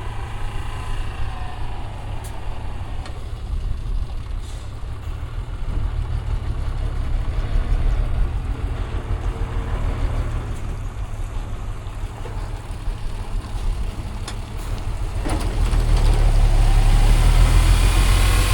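City street traffic heard from a moving bicycle: motor vehicles passing over a steady low rumble of wind and road noise, growing louder about three-quarters of the way through.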